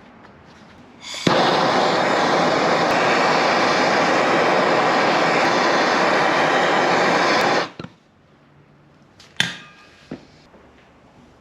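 A loud, steady machine noise that starts abruptly about a second in, holds level for about six seconds and cuts off, followed by two sharp clicks near the end.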